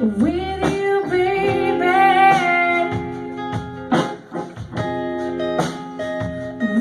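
Live blues music: guitar with a voice singing held, bending notes over it, and sharp beats now and then.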